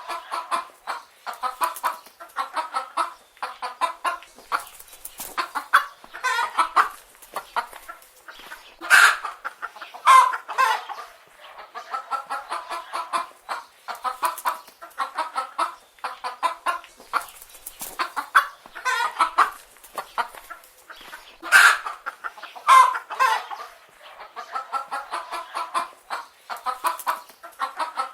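Several chicken hens clucking continually, with overlapping short calls and a few louder squawks now and then.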